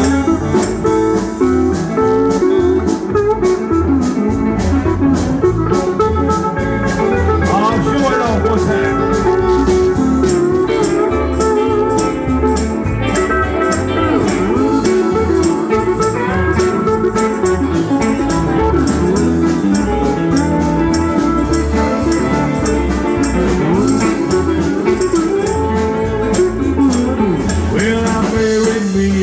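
Country band playing an instrumental break: a lead guitar with bending, sliding notes over bass and a steady drum beat.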